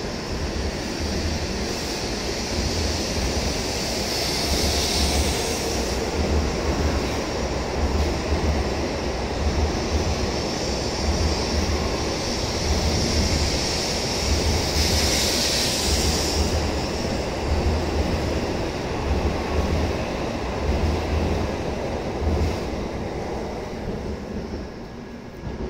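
N700A Shinkansen train pulling out and accelerating along the platform: a steady rushing of wheels and air over a low rumble, with two brief swells of hiss. It fades near the end as the last car clears.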